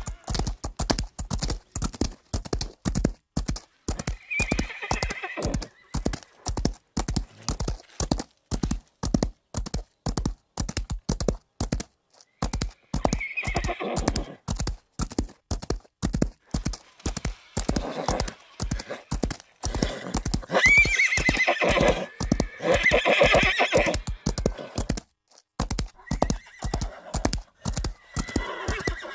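Horse hooves clip-clopping at a steady quick pace on hard ground, about three strikes a second, with a horse whinnying several times over it. The loudest whinny comes about two-thirds of the way through.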